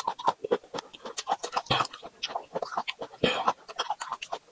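A person chewing close to the microphone: irregular crisp crunches and wet mouth clicks and smacks, with a louder crunch twice.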